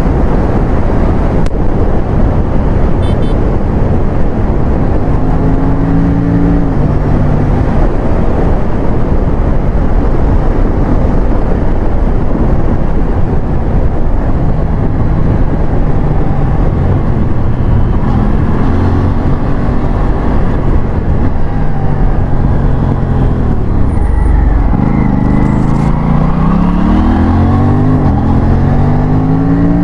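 Aprilia RS457 parallel-twin motorcycle engine under way on the road, its note holding, dropping and rising with throttle and gear changes, over a dense rushing noise. Near the end it climbs sharply several times in quick succession as it accelerates hard.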